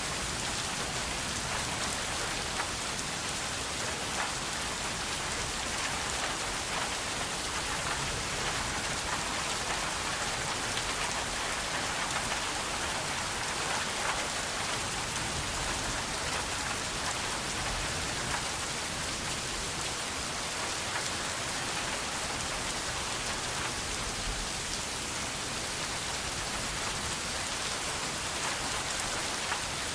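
Steady rain falling on a surface: an even hiss filled with countless fine drop patters.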